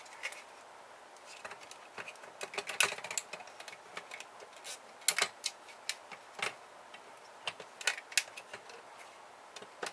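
Irregular clicks and taps of hand tools and small plastic and metal printer parts being handled and pried during disassembly, some sharper knocks among softer ticks.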